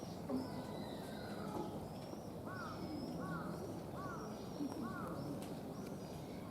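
A bird calling: a short arched call repeated four times at an even pace, over steady outdoor background noise.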